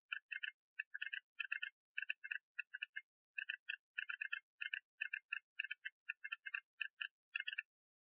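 Telegraph Morse-code sound effect: quick runs of short pitched beeps in an uneven dot-and-dash rhythm, stopping near the end.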